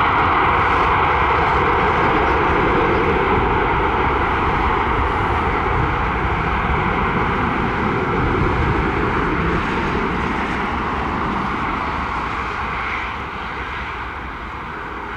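Airbus A320's twin IAE V2500 jet engines running with a loud, steady rush of engine noise, which fades over the last few seconds.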